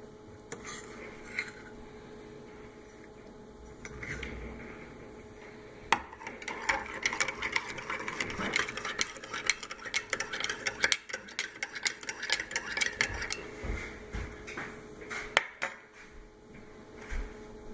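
Cutlery clinking rapidly against crockery for about seven seconds, starting with a knock about a third of the way in. A sharp click comes near the end, and a steady hum runs underneath.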